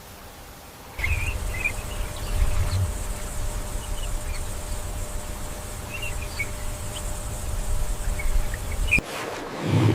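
Wild outdoor ambience: a steady low rumble with scattered short, high bird-like chirps and a faint, thin high insect hum. It cuts in suddenly about a second in and cuts off near the end.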